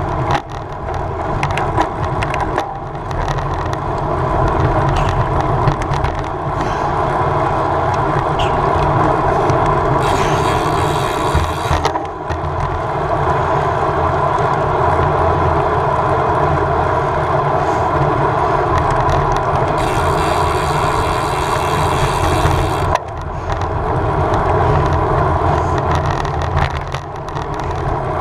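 Wind rushing over the microphone and tyre noise from a road bike riding at race speed, as a steady loud rush. A brighter hiss comes in twice, for a couple of seconds each time.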